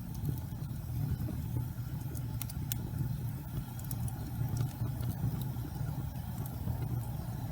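Gas fireplace flames burning with a steady, fluttering low rumble, with a few faint crackles and ticks scattered through it.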